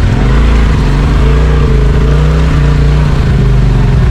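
Side-by-side UTV engine running under load, its note rising and falling with the throttle.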